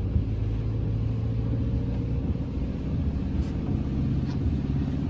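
Campervan driving along: steady low rumble of its engine and road noise.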